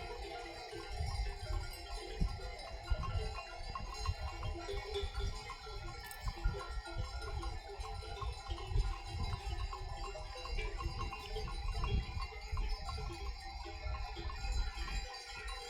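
Bells on a flock of goats and sheep clanking and ringing irregularly as the animals move, over a low rumble.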